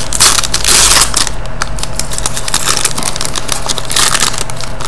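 Trading-card foil pack wrappers and cards being handled: crinkling and rustling with many small clicks, loudest in a burst of crinkling in the first second.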